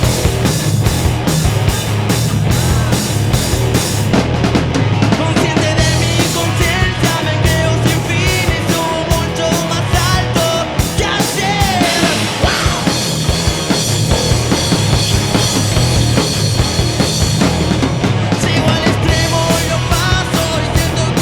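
Live rock band playing an instrumental passage: drum kit, electric guitar and bass, with a guitar line bending up and down in pitch about midway.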